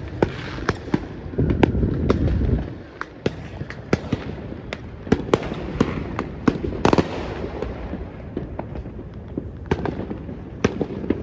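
Many fireworks going off at once, sharp cracks and bangs at irregular intervals over a continuous rumble of more distant bursts, with a heavier low rumble about two seconds in.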